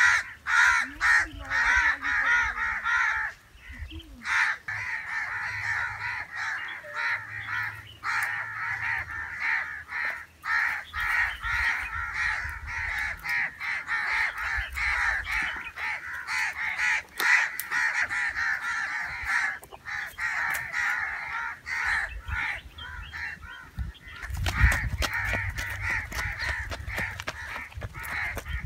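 A dense chorus of many birds calling at once, with crow-like caws, chattering on without a break, over a low rumble that grows louder near the end.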